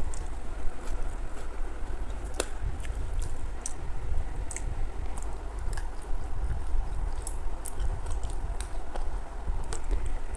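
Close-miked chewing of rice and curry, with scattered wet mouth clicks and smacks over a steady low rumble.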